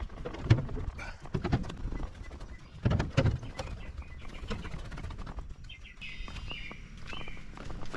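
Footsteps going down the stairs of an observation tower: irregular knocks and light creaking of the stair structure. A bird chirps a few times near the end.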